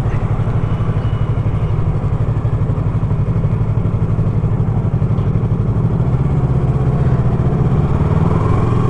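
Motorcycle engine running at low, steady revs, its firing heard as a fast, even throb.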